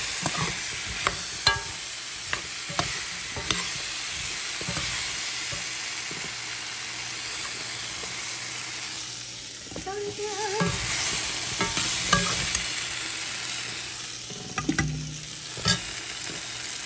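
Cubed red potatoes sizzling in butter in a frying pan, a steady frying hiss, while a metal slotted spoon stirs and scoops them, with sharp clicks and scrapes of metal on the pan, several in the first few seconds and a cluster near the end.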